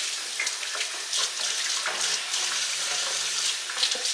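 Steady rush of running water with small scattered splashes and clicks.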